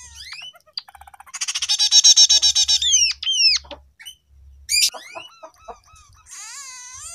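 Scaly-breasted munia (emprit peking) trained on canary song, singing canary-style phrases. About a second in comes a loud, fast trill lasting about a second and a half, followed by quick downward-sweeping whistles and then scattered chirps and whistles.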